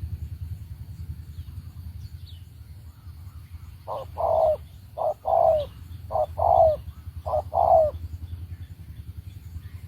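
Spotted dove cooing: from about four seconds in, four two-note calls a little over a second apart, each a short note followed by a longer one that falls in pitch. A steady low rumble runs underneath.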